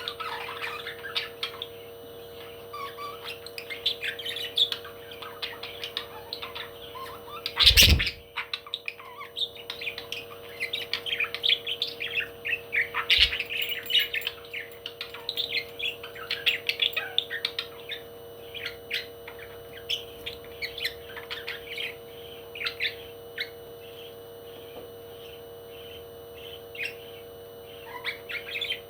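Parrots chirping and chattering in a rapid stream of short chirps and squawks, with one loud thump about eight seconds in. A steady hum runs underneath.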